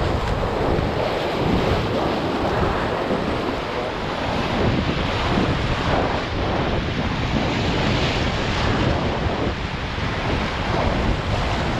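Steady rush of white water on the river, with wind buffeting the microphone.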